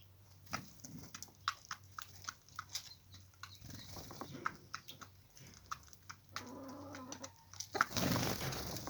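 Poultry moving about: a run of light clicks and taps, then a single pitched call about a second long, then a loud brief rustle near the end.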